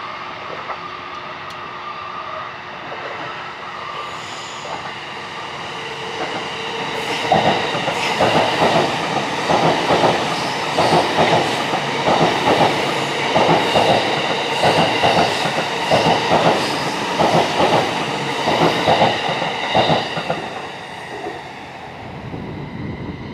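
An E657 series electric limited express train runs through the station. It grows louder over the first few seconds, then its wheels clack over the rail joints in regular pairs about once a second, and the sound fades near the end.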